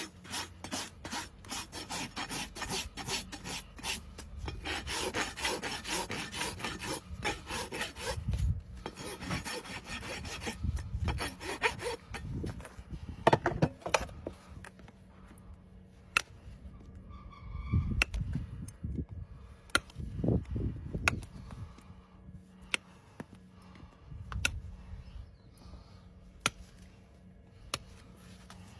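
Farrier's rasp filing a horse's hoof: a run of rapid back-and-forth scraping strokes, then sparser scrapes and sharp clicks in the second half.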